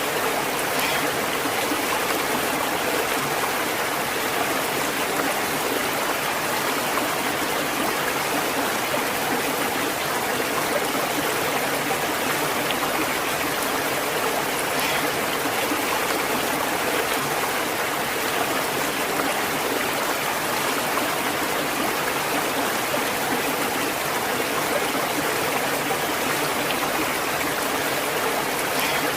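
Natural flowing water running steadily, like a stream, as an even, unbroken rush with faint small splashes scattered through it.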